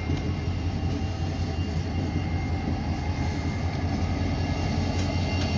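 Norfolk Southern diesel freight train passing: a steady low rumble from the locomotives with the noise of wheels on the rails.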